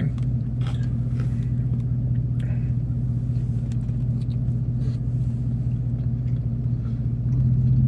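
Steady low hum of an idling vehicle heard from inside the cab, getting a little louder near the end, with faint bites and chewing on a piece of grilled chicken.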